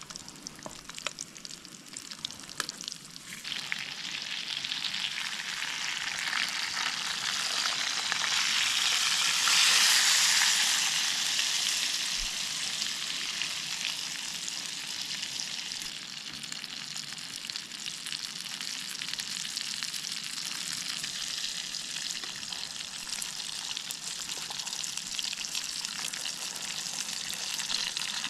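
Breaded fish frying in hot oil with garlic cloves in a camping pan. After a few light clicks, the sizzle starts about three seconds in, swells to its loudest around ten seconds, then settles into a steady sizzle.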